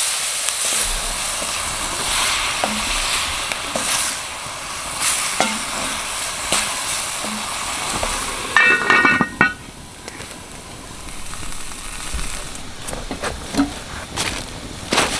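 Stir fry sizzling in a pan, with scattered clicks and knocks from stirring. About nine seconds in comes a brief high-pitched squeak, and the sizzle then drops lower for a few seconds before building again.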